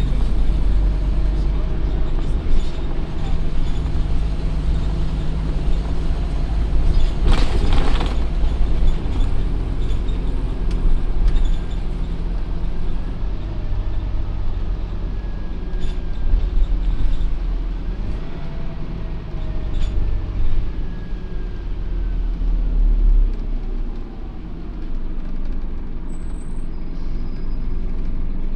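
Scania OmniCity N230UD double-decker bus running, its diesel engine note rising and falling as it drives. There is a short burst of air hiss about seven seconds in.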